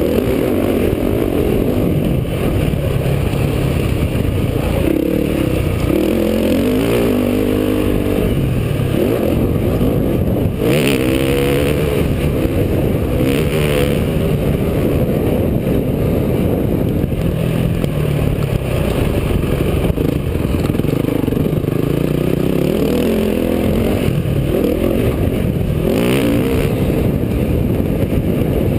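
Motocross dirt bike engine revving up and down as it is ridden around a track, its pitch rising and falling repeatedly. There are a few short rushes of noise, about 11, 14 and 26 seconds in.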